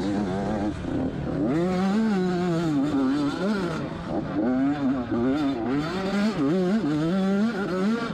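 Two-stroke dirt bike engine revving hard, its pitch repeatedly rising and falling as the throttle opens and closes.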